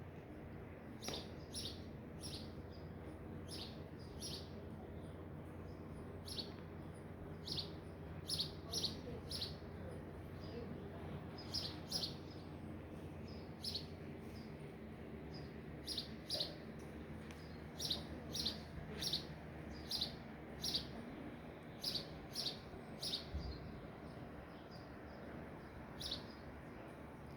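Small birds chirping: short, high chirps, often in quick pairs, repeated irregularly over a steady low hum.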